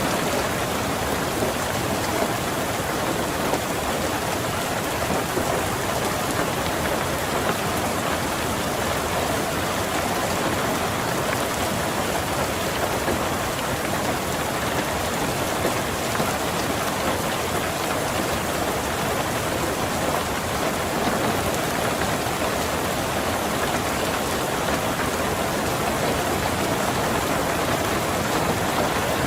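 Steady rain falling on a car's roof and windows, heard from inside the car: a dense, even patter of drops.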